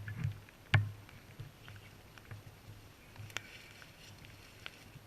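Scattered faint clicks and light rustling, with one sharp click about a second in and another near the middle.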